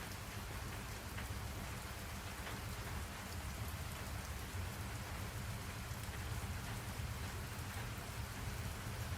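Steady rain falling, with a low rumble underneath and scattered drop patter.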